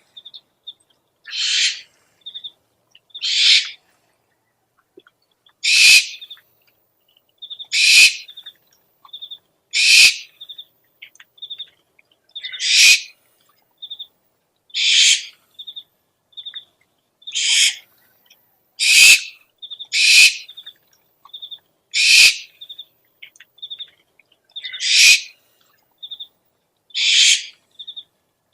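Owl lure recording: harsh hissing screeches of about half a second, repeating roughly every two seconds, with short high pips between them.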